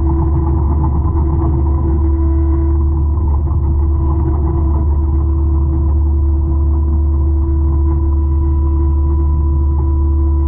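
200-horsepower forestry mulcher running steadily at work: a heavy, even engine rumble with a constant droning tone over it.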